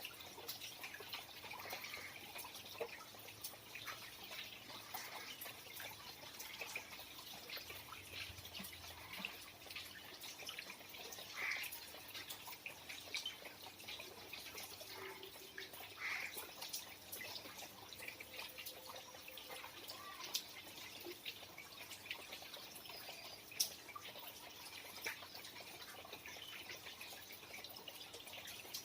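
Rain dripping: scattered drops ticking at an irregular pace over a faint wash of falling rain, with a few short chirps now and then.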